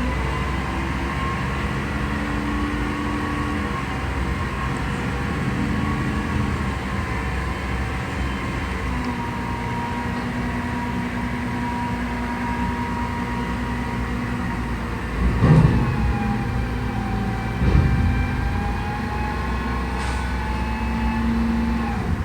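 Mack MRU613 front-loader recycling truck's diesel engine running steadily, with whining tones that shift in pitch near the end. Two loud bangs come about two seconds apart, past the middle.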